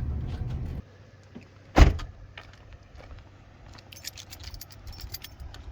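A low rumble that cuts off suddenly about a second in, then one loud thump like a vehicle door shutting, followed near the end by a quick run of light metallic clicks and jingles like keys being handled.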